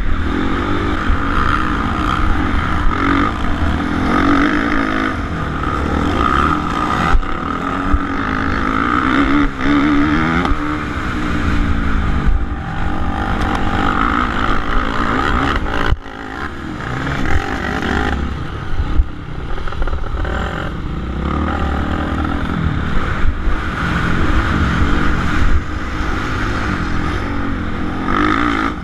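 Suzuki RM-Z450's single-cylinder four-stroke engine revving up and falling back again and again as the dirt bike is ridden hard around a motocross track. The throttle is shut off briefly about halfway through.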